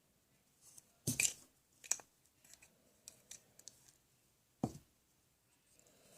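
Scattered sharp clicks and knocks of objects being handled, loudest about a second in and again near five seconds, with lighter ticks in between.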